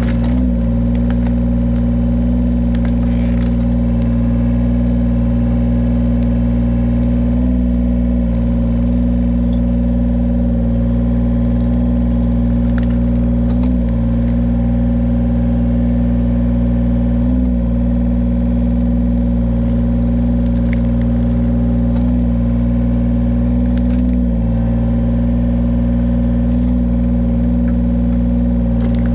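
Engine of a firewood-splitting cutter machine running steadily, with a brief waver in its note every few seconds.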